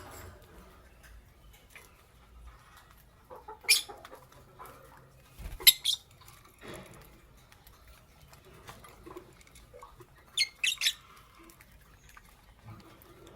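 Lovebirds giving short, sharp high chirps: one about four seconds in, another just before six seconds, and a quick run of three near eleven seconds.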